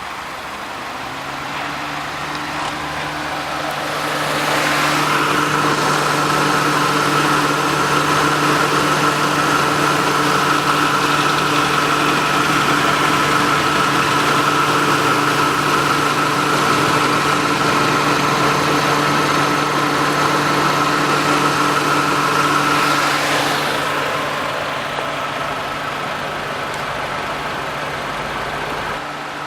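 TagAZ Aquila's 1.6-litre inline-four engine idling steadily. It swells louder for most of the middle and then eases back, with its pitch unchanged throughout.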